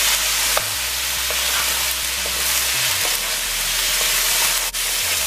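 Cubed pumpkin frying in hot sunflower oil in a nonstick wok: a steady sizzling hiss, with the soft scrape of a wooden spatula stirring the pieces.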